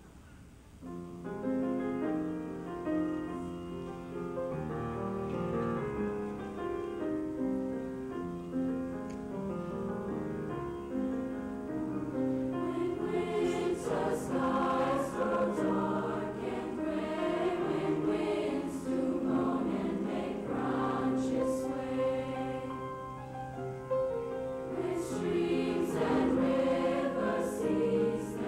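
Junior high school choir singing in held chords, coming in about a second in after a brief quiet, with the hiss of sung consonants audible in the later part.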